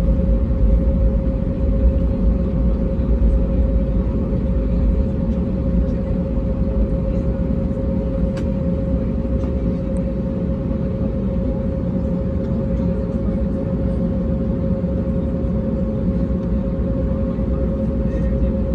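Airbus A320neo cabin noise in flight: a steady low rumble and airflow hiss with a constant droning tone, the rumble easing slightly over the first few seconds.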